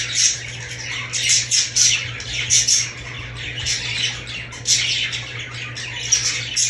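Budgerigars chattering: a continuous run of short, harsh squawks, two or three a second.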